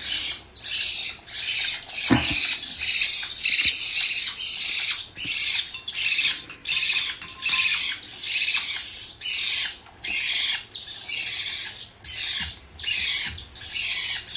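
Hand-fed parrot chick giving rapid, harsh, raspy begging calls, repeating nearly twice a second without a break as it takes formula.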